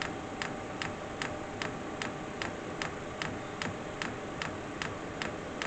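The diesel air heater's fuel dosing pump ticks steadily, about two and a half clicks a second, over a steady hum while the heater works through its start-up.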